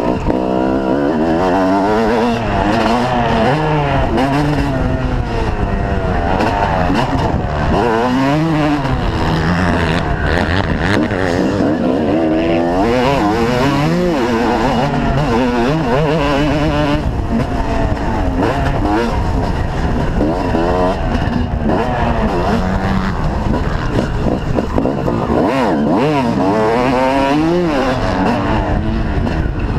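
Motocross bike engines revving hard, their pitch repeatedly climbing and dropping back as they accelerate and shift or back off, with more than one engine heard at once.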